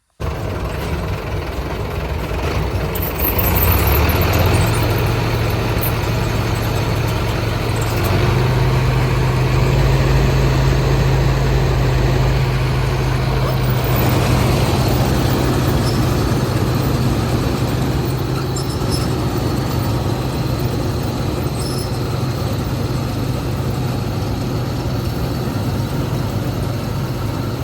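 Mahindra Arjun Novo tractor's diesel engine running hard while driving a mini combine harvester, picking up revs about three seconds in and again about eight seconds in, then holding steady.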